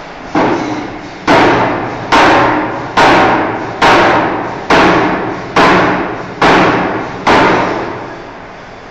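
Forging hammer striking a steel bar, nine heavy blows at an even pace of a little more than one a second, each ringing out and fading before the next; the first blow is lighter. A steady mechanical hum runs underneath.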